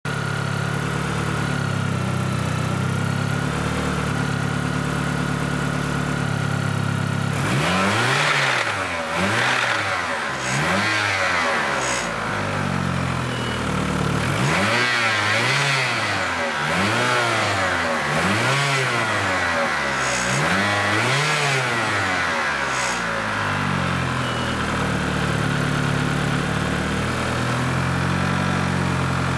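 1990 Eagle Talon TSi AWD's turbocharged four-cylinder engine idling with a steady high whine, then blipped about eight times in quick rises and falls from about seven seconds in, then settling back to idle. The owner calls what it makes a weird noise.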